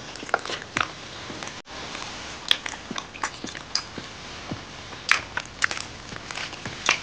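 Mouth sounds of people eating steamed momo dumplings by hand: irregular wet smacks and clicks of biting and chewing.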